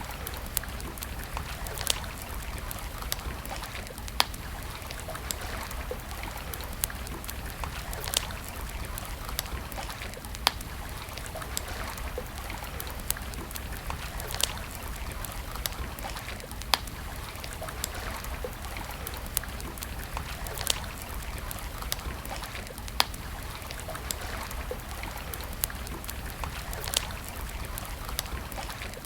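Campfire crackling, with sharp pops every second or two, over a steady hiss of running water.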